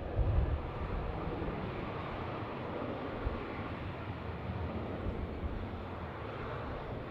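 Steady rushing rumble of jet airliner noise, with wind gusting on the microphone.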